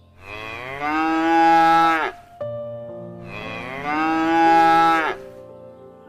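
Cow mooing: two long moos about three seconds apart, each dropping in pitch as it ends.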